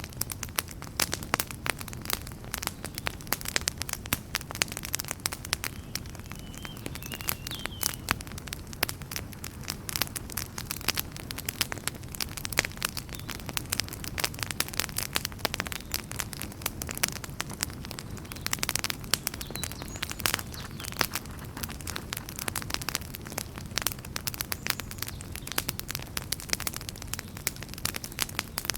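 Wood campfire burning, with frequent irregular crackles and sharp pops over a steady low rush of flames.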